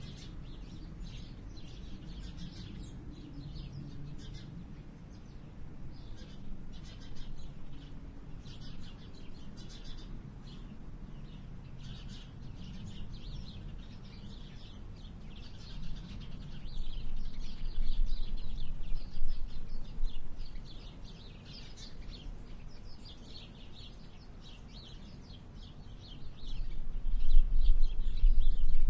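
Small birds chirping repeatedly, with a low rumble underneath that swells twice, in the middle and again near the end.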